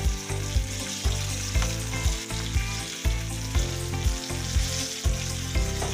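Battered chicken deep-frying in a pot of oil, giving a steady sizzle, while a spoon stirs rice and peas in an aluminium pot. Low knocks come about twice a second underneath.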